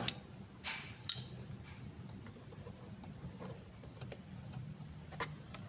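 Scattered sharp clicks and light knocks of pliers and hose fittings being worked loose on an engine's turbo and breather hoses, with a faint steady low hum underneath.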